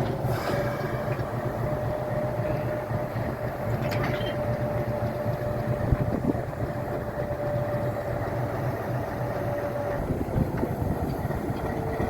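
Alco RS8 diesel locomotive running while shunting: a steady low rumble with a held high whine that fades about ten seconds in, and a sharp knock about six seconds in.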